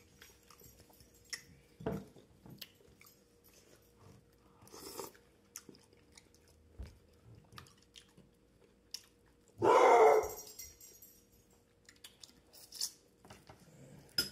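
Close-miked chewing of a broccoli, carrot and cheese casserole topped with crunchy fried onions, with soft wet mouth sounds and small clicks. A loud burst lasting about half a second comes about ten seconds in.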